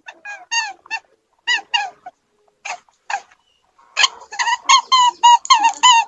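An animal calling in short, high-pitched notes, each falling slightly in pitch: a few scattered calls, then a quick run of them from about four seconds in.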